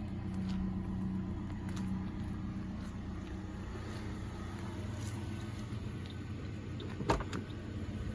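2018 Toyota Corolla SE's 1.8 L four-cylinder engine idling steadily, heard near the exhaust. A single short knock sounds about seven seconds in.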